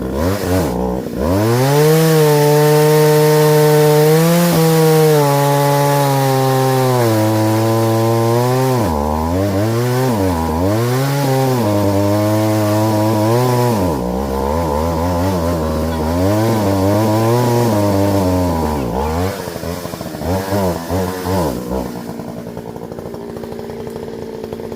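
Partner Farmer two-stroke chainsaw held at full throttle. Its pitch sags and recovers again and again as the chain is worked in wood, then it drops back to idle near the end.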